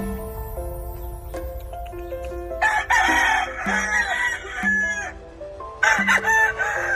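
Gamecock crowing twice, a long crow and then a shorter one near the end, over background music.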